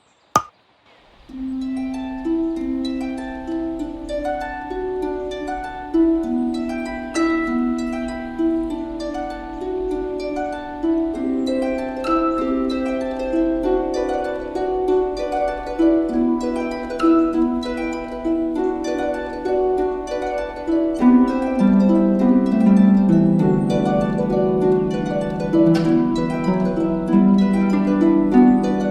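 Solo harp music: plucked notes in a gently flowing melody over broken chords, with lower notes filling out the sound about two-thirds of the way through.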